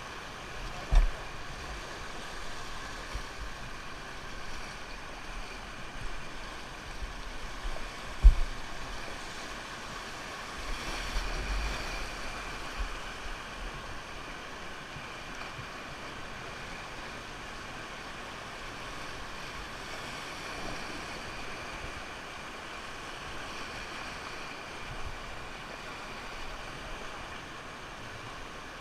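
River rapids rushing past a raft: a steady wash of water noise, with two short low thumps, about a second in and again about eight seconds in.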